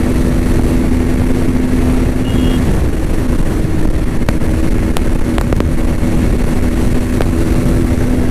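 Bajaj Pulsar NS200 single-cylinder engine running at high revs at speed, its note holding steady apart from a brief dip about two and a half seconds in, under heavy wind rumble on the microphone.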